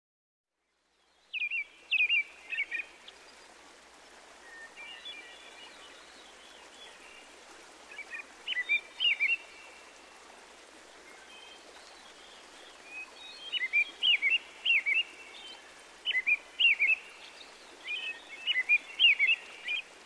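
Small birds chirping in quick clusters of short calls over a steady background hiss, starting about a second in.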